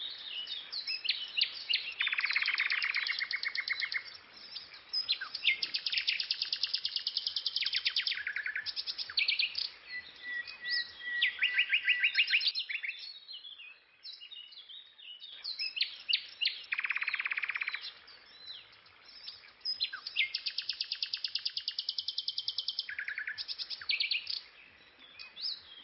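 Songbird singing a long run of fast trills and sharp chirps, phrase after phrase, with a short lull about halfway through.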